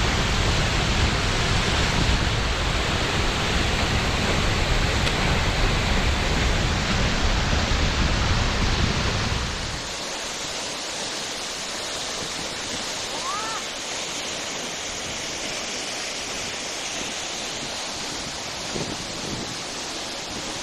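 Seljalandsfoss waterfall's steady rush of falling water, loud and with a heavy low rumble, dropping suddenly to a quieter, thinner hiss about halfway through.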